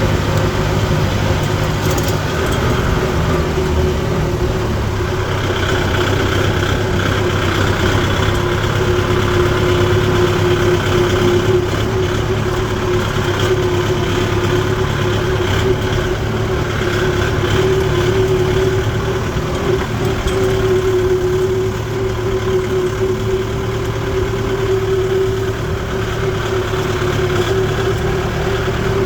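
Kubota tractor's diesel engine running steadily, with a constant hum that holds its pitch throughout.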